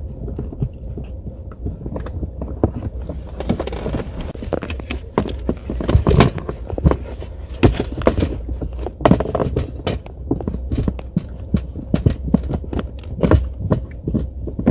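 Puppies playing with and chewing their toys inside a moving car: irregular taps, knocks and rustles over a steady low road rumble.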